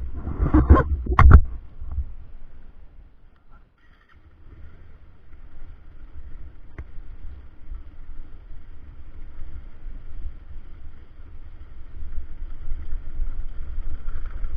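A few loud knocks and bumps in the first second and a half, then a motorcycle ride on a rough road: a steady low rumble with wind on the microphone. The sound drops out briefly about four seconds in.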